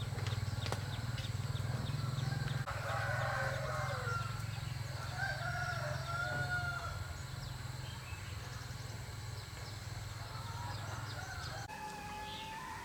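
Roosters crowing, several drawn-out calls in the middle of the stretch, over a steady low hum that cuts off near the end.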